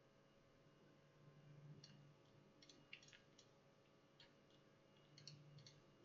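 Near silence with faint, scattered computer mouse clicks, a few single and some in quick pairs.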